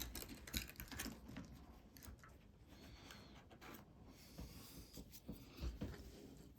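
Faint irregular clicks and light scraping of small metal tools handling the parts of an opened quartz watch.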